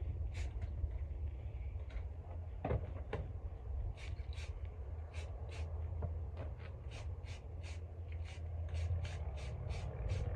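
Rhythmic short rasping strokes, about two to three a second, over a steady low hum.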